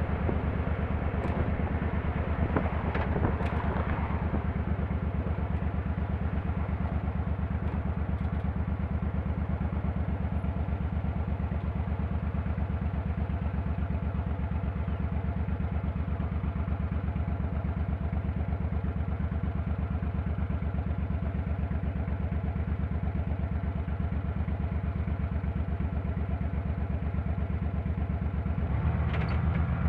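Motorcycle engine running steadily, with a pulsing low note and a few clicks in the first seconds; the engine grows louder near the end.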